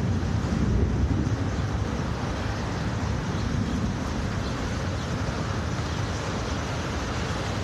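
Steady wind noise buffeting the microphone, a low rumble with a hiss above it.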